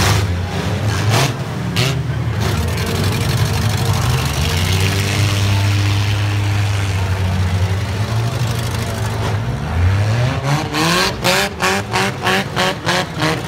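Demolition derby cars' four-cylinder engines running steadily, then one engine revved hard in quick repeated bursts, about two a second, over the last few seconds.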